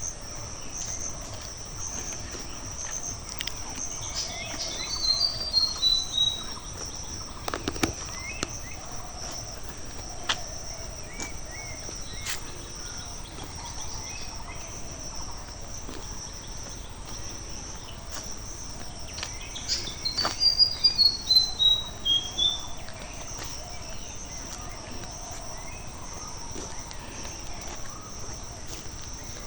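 Insects shrilling steadily at a high pitch, with a bird singing a quick run of notes that steps down in pitch, twice: about five seconds in and again about twenty seconds in.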